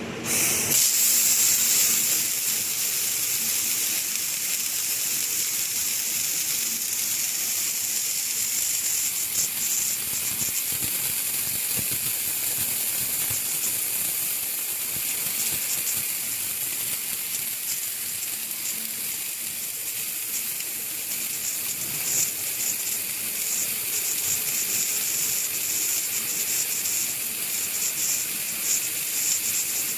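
Bank of wire-fed arc welding torches on an automatic rosette seam welder striking up together about half a second in, then a steady, loud crackling hiss of many welding arcs running at once as the ringlock rosettes are welded to the scaffolding pipe.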